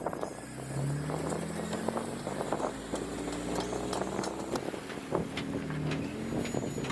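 Jeep engine running at low speed, its pitch rising and falling as it is revved, with scattered clicks and crunches throughout.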